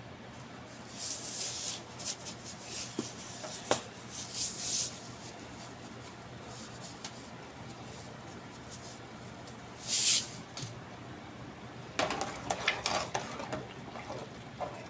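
Kitchen sounds of cooking at a pot: a few short hisses and light clinks and knocks of a utensil, with busier clattering near the end.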